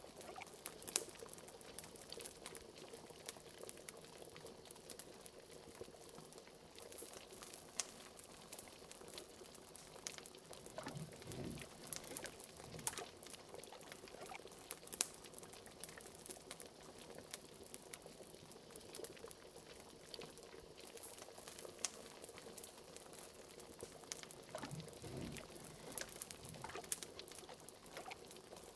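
Liquid bubbling at a simmer, with many small pops and crackles throughout and a few deeper glugs at about 11, 13 and 25 seconds in.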